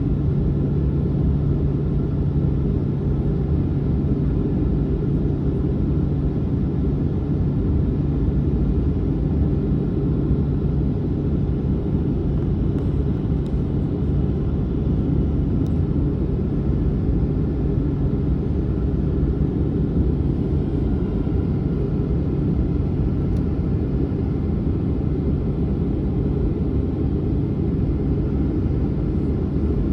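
Boeing 737-900 jet airliner making a steady low rumble with a steady hum through it, with no change in pitch or level.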